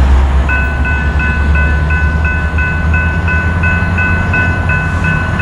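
Norfolk Southern freight train led by an EMD SD70ACe locomotive, running past with a heavy low rumble. From about half a second in, a bell rings steadily about three times a second over it.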